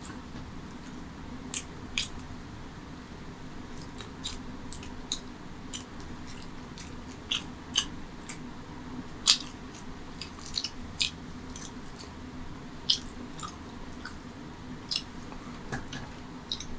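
Close-miked eating sounds: chewing and wet mouth smacks as a man finishes a boiled egg with curry gravy and licks his fingers, heard as sharp, irregular clicks over a steady low hum.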